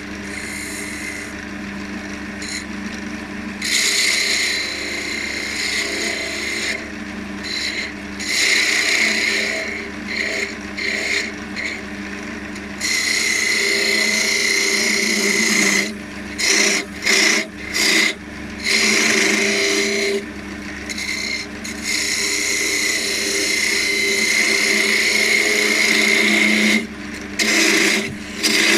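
Spindle gouge cutting a spinning elm spindle on a wood lathe, shaping small beads. The cut comes and goes as the tool is pushed in and eased off, over the steady hum of the running lathe, with a few short breaks in the cutting near the end.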